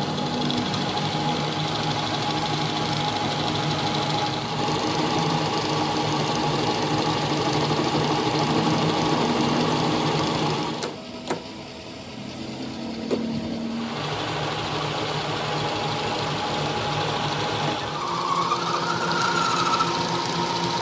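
A workshop machine running with a steady, many-pitched hum. It dips for about three seconds just past the middle, then picks up again; a brief wavering whine comes in near the end.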